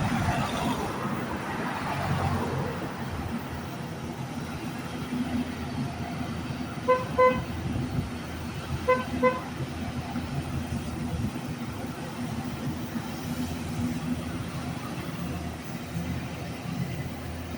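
An engine running steadily, with two pairs of short horn toots, about seven and about nine seconds in.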